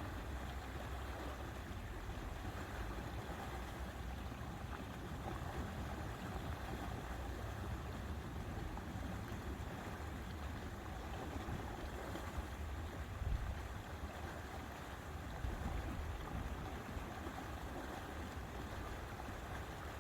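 Lake water washing and lapping in a steady hiss, with wind gusting against the microphone in a low, uneven rumble that swells a couple of times.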